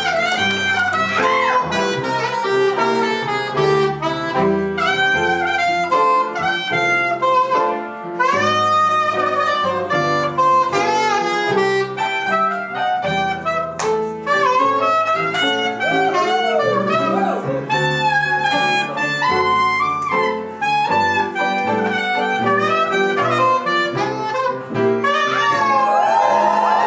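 Live blues band playing an instrumental chorus, a saxophone carrying the melody over a stepping bass line and rhythm section.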